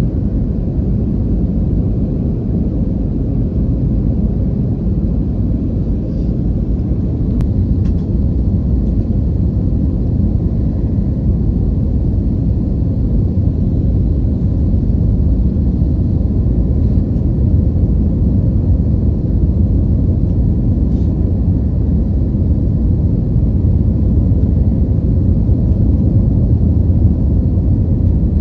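Steady low rumble of an Airbus airliner heard from inside the passenger cabin, the engines and airflow as one constant roar with no distinct tones, slowly growing a little louder.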